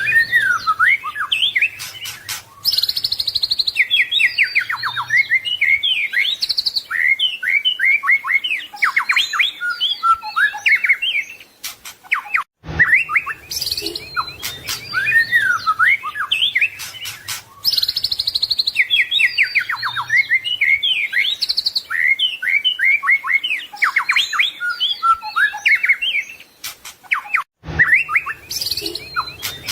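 White-rumped shama (murai batu) singing a full, varied song of fast whistles, rapid trills and chatter. The same roughly fifteen-second stretch of song plays over again, with a brief break between repeats.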